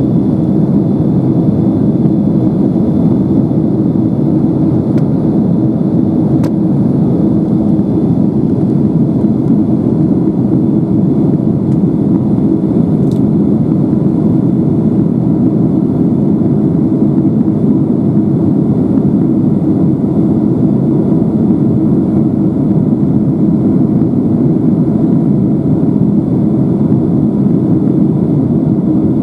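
Steady cabin drone of a Boeing 767-300ER airliner in flight, a dense low rushing noise with a constant hum running through it. Two faint ticks come about six and thirteen seconds in.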